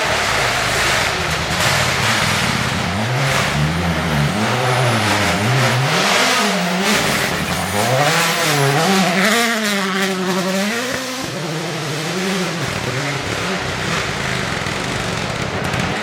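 Rally car engine revving hard through the gears on a stage run, its note climbing and dropping again and again as it shifts and brakes for corners.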